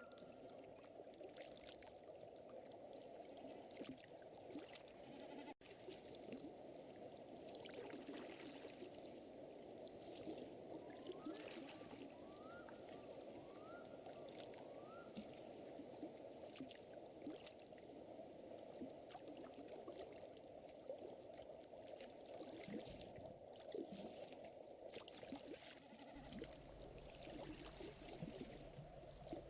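Faint ambience of a crackling fire over gently lapping lake water, with fine crackles throughout. Four short rising chirps come in quick succession about halfway through, and a low rumble comes in near the end.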